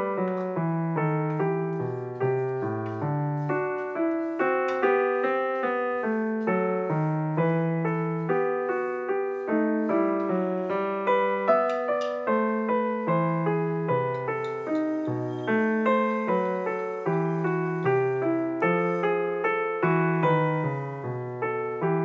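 Background piano music, a steady run of single struck notes over a lower line.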